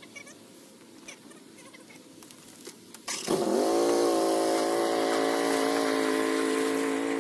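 A small engine starts about three seconds in: its pitch dips, climbs and then settles into a steady run. Before it there are only a few faint ticks and knocks.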